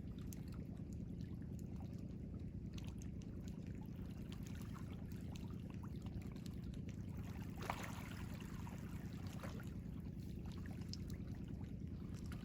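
Ocean waves: a steady low wash with small splashes and trickles of water, and one brief louder splash a little past the middle.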